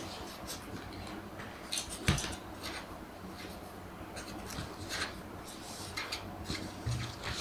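Pen scratching on paper as a question is written out by hand, in short faint strokes, with one knock about two seconds in.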